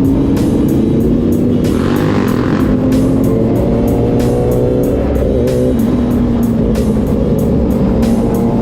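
Motorcycle engine running under way, its pitch drifting up and down, mixed with background music that has a steady beat. A brief rushing hiss comes about two seconds in.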